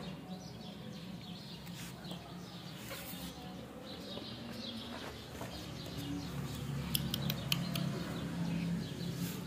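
Small birds chirping repeatedly in short calls over a low steady hum, with a few sharp clicks about seven seconds in.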